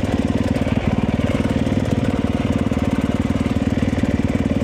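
Motorcycle engine running steadily, an even rapid pulse with no change in revs.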